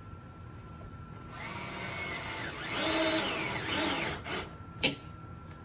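Power drill driving a screw, its motor whining in a run of about three seconds that rises and falls in pitch as the trigger is eased, followed by a brief spin and a sharp click.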